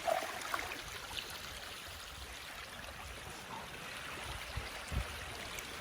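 Seawater washing and trickling over lava rocks at the shoreline, a steady wash, with a low bump about five seconds in.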